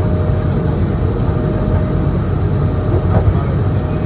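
Cabin noise of a Swiss Airbus A220-100 under way, from its Pratt & Whitney PW1500G geared turbofans and the airflow: a loud, steady, deep rumble with a thin steady tone above it.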